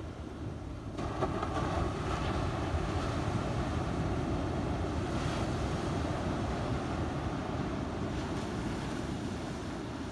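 Ocean surf breaking and washing on the beach, with wind rumbling on the microphone. The wash swells up about a second in and eases off near the end.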